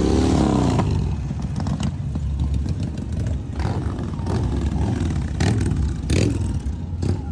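Motorcycle engine running with a heavy low rumble, its pitch rising and falling as it revs near the start, with scattered brief knocks and clatter.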